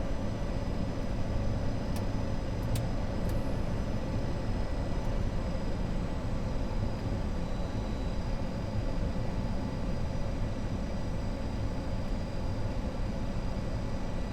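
Steady cockpit noise of an Avro RJ100 on final approach, gear down and flaps at 33: airflow and its four turbofan engines running, with a few faint clicks about two to three seconds in.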